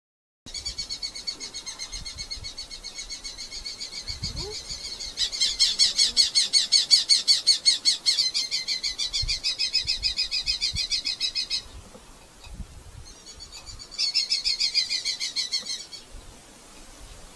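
Red-footed falcon calling: a long, fast chattering series of sharp, high repeated notes, several a second, growing louder about five seconds in. It breaks off just before the middle and starts again briefly near the end.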